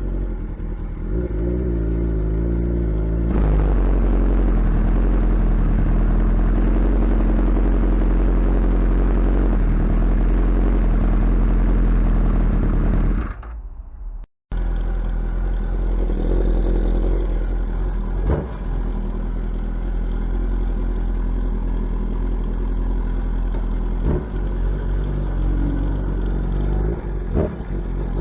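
Suzuki Hayabusa's inline-four engine running through a loud exhaust while being ridden. From about three seconds in it gets louder, with a hiss over the engine for some ten seconds. The sound then drops and cuts out for a moment, and the engine comes back with a few short clicks and a rise in pitch near the end.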